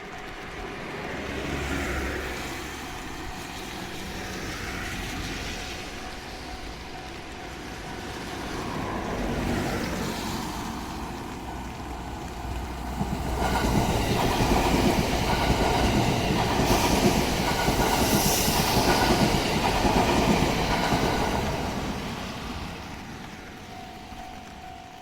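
Train passing over a level crossing, its wheels clattering over the rails. The sound swells twice, is loudest for several seconds past the middle, then fades away.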